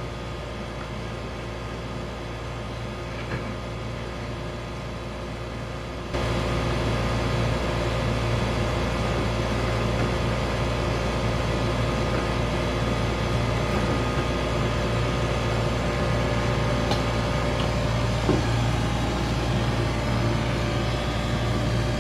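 Ice machine running: a steady mechanical hum with several steady tones, which gets suddenly louder about six seconds in and then holds.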